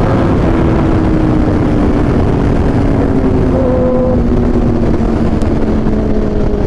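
Aprilia RSV4 1100 Factory's V4 engine running through an SC Project exhaust at riding speed, its pitch falling slowly and evenly as the bike eases off, under heavy wind rumble.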